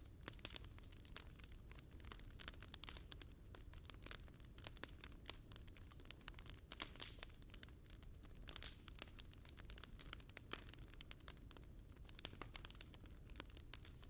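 Faint crackling of a bonfire sound: scattered, irregular small pops and snaps over a low steady background.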